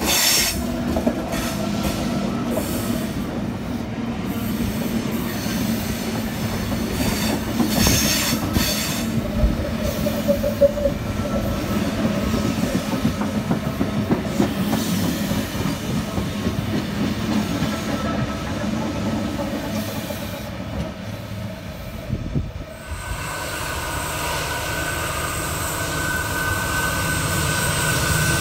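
Intercity V-set double-deck electric train passing close by, its wheels rumbling and clattering on the rails with some wheel squeal. About three-quarters of the way through this gives way abruptly to the steady drone of approaching diesel freight locomotives, with a high held tone above it.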